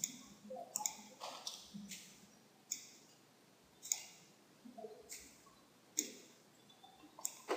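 Computer mouse clicking: a scatter of sharp, irregular clicks, bunched in the first two seconds and near the end with quieter gaps between.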